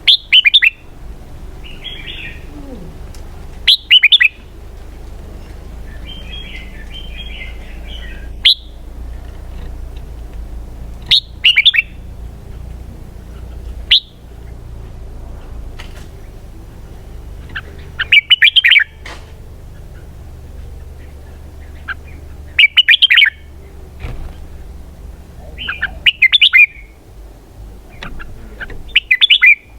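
Red-whiskered bulbul singing: short, loud song phrases every few seconds, with softer chirping between them. The song is in the style Vietnamese keepers call 'double twist' (xoắn kép).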